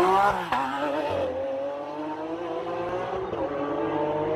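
Lamborghini Aventador's 6.5-litre V12 accelerating hard. The engine note climbs to its loudest at the start and drops sharply about half a second in as it shifts up. It then climbs slowly and steadily again in the next gear.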